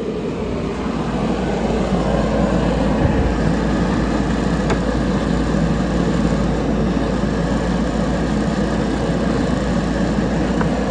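A motor-driven shop machine running steadily, swelling up over the first couple of seconds and then holding an even, loud drone.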